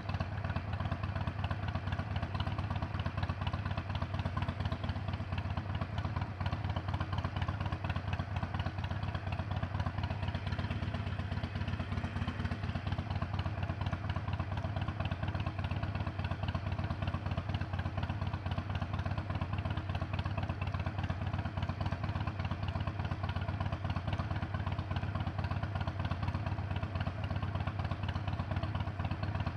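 Harley-Davidson Iron 883's air-cooled V-twin engine running steadily at an even pace, with no revving.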